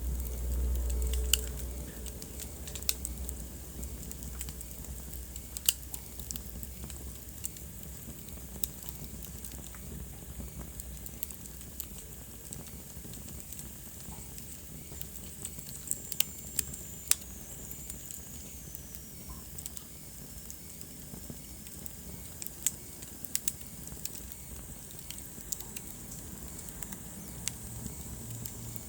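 Wood fire burning in a fireplace: irregular sharp crackles and pops over a soft steady hiss, with a low rumble in the first second or so.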